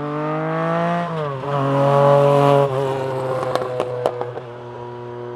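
Rally car engine revving hard. The pitch climbs, dips briefly about a second in as the driver shifts, then pulls again at its loudest before lifting off. A few sharp cracks come as it lifts off, then the engine settles to a steadier, lower note.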